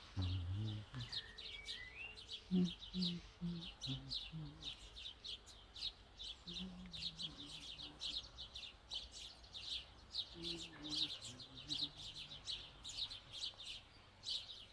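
Songbirds chirping in a dense, rapid, continuous chorus of high notes, with a short rising whistle from another bird about a second in.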